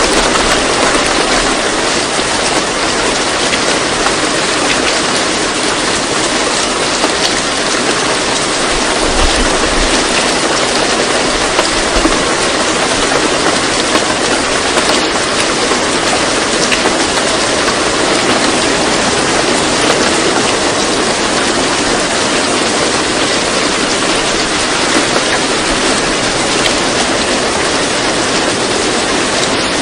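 Steady rain: an even, dense hiss of falling water, with faint scattered patters.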